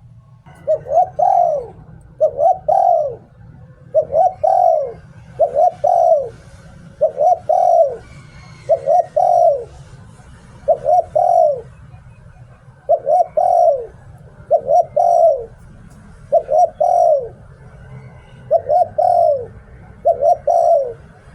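Spotted dove cooing in the 'liu tan' song style: about a dozen short coo phrases, one roughly every two seconds, each a quick run of two or three notes. Faint chirps of small birds sound in the background.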